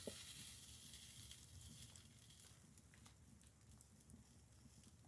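Near silence, with a campfire crackling faintly: a soft high hiss with scattered light crackles, fading a little after two or three seconds.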